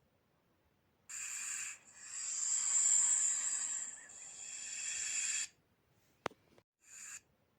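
Snake hissing in separate breaths: a short hiss about a second in, a long hiss of about three and a half seconds, and a brief one near the end, with a single sharp click between them.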